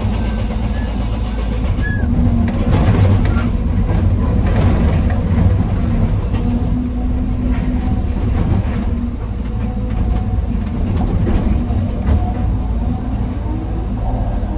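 Excavator's diesel engine running steadily under load while it loads andesite rock into a dump truck, with rough clattering bursts about two to five seconds in and again near the middle.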